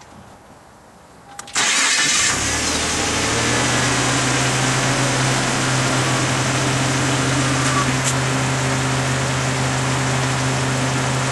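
Car engine starting about a second and a half in and settling into a steady idle.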